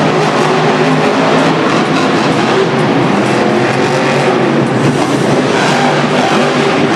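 A loud engine sound running steadily, with a constant low pitched hum under a dense rushing noise, like a monster truck's engine.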